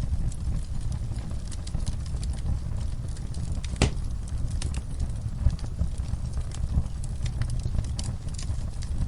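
Wood fire crackling in a fireplace: a low steady rumble of the flames with irregular pops and snaps, one sharper pop about four seconds in.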